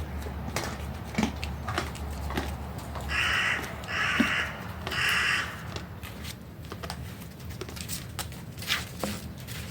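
A crow cawing three times in quick succession, each call harsh and under a second long, with scattered sharp clicks around it.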